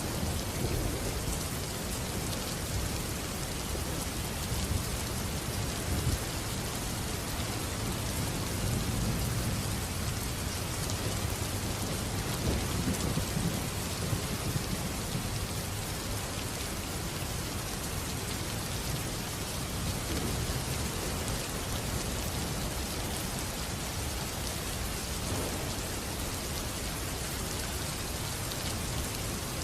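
Steady heavy rain with low rolling thunder that swells and fades, loudest about halfway through.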